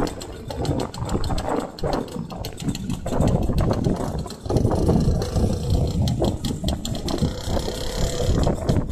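Vintage motorcycle engines running, the nearest one with an uneven chugging beat.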